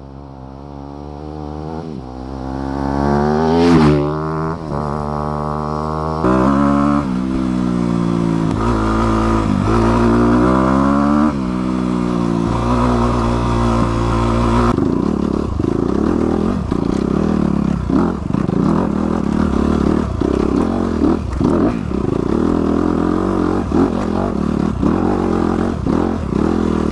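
Honda CRF250R dirt bike's single-cylinder four-stroke engine revving, its pitch rising and falling again and again as the throttle opens and closes. The sound changes abruptly a couple of times, and about halfway through it turns to a rougher, steadier run with scattered clattering.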